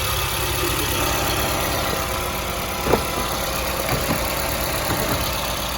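A Toyota Fielder hybrid running with its A/C on and freshly recharged: a steady, low vehicle hum, with a faint click about three seconds in.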